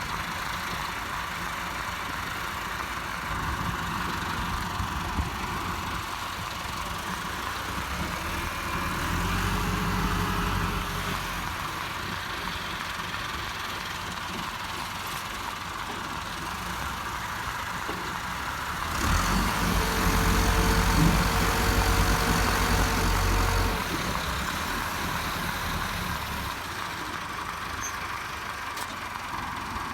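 Diesel tractor engines running steadily, growing louder for a few seconds twice: about a third of the way through, and more strongly for about five seconds past the middle.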